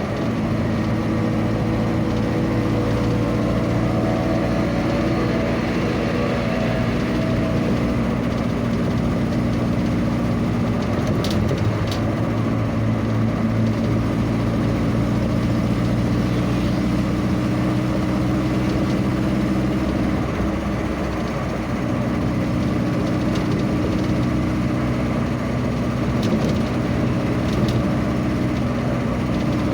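Vehicle engine running steadily at an even speed, over a constant haze of road noise, with a few faint clicks.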